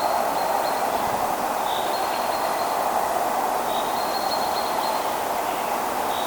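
Electric passenger train running past on the line, a steady rolling noise of wheels on rails.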